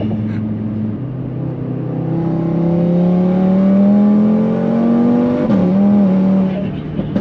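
Audi RS3 8V's turbocharged 2.5-litre five-cylinder engine accelerating, heard inside the cabin. Its note rises steadily in pitch and grows louder, then dips sharply about five and a half seconds in and settles. The car is running a new tune on freshly fitted 4-bar MAP sensors for higher boost.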